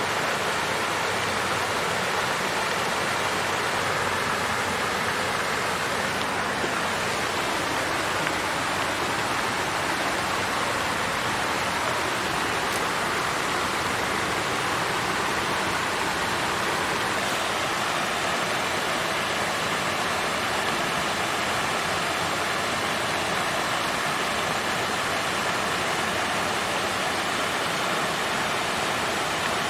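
Water fountain running: a steady, even splashing of falling water.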